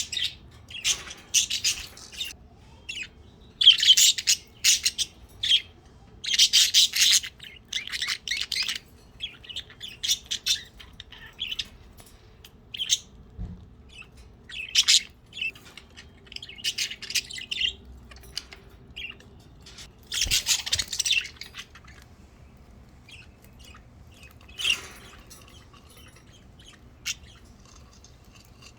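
Pet budgerigars chirping and chattering in quick, high bursts, busy at first and thinning out to occasional soft chirps for the last several seconds.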